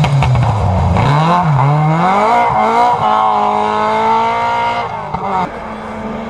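Rally car engine passing at full throttle, its pitch climbing and dipping once at a gear change, then holding high before the throttle is lifted about five seconds in. A second car's engine is heard more quietly near the end.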